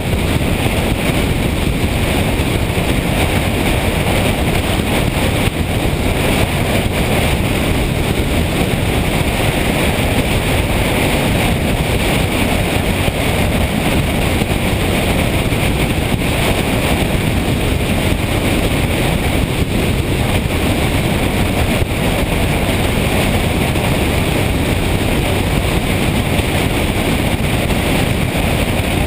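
Motorcycle being ridden at a steady speed: constant wind rush on the microphone over the engine and road noise, with no breaks.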